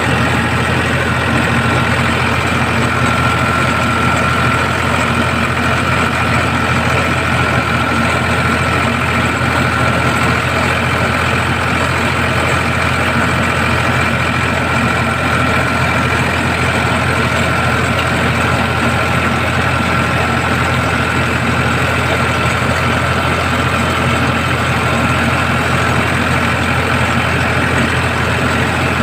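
Ford 3600 tractor's three-cylinder engine idling steadily.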